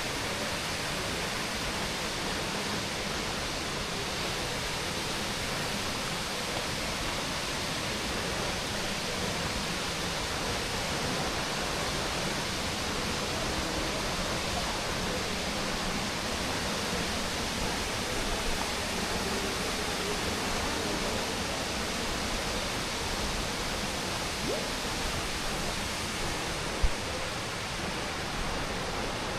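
Steady rushing of flowing water, an even hiss with no change in level. A single short knock sounds near the end.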